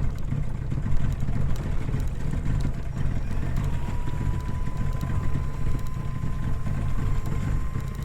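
Boat engine running steadily with a low rumble; a thin steady whine comes in about halfway through.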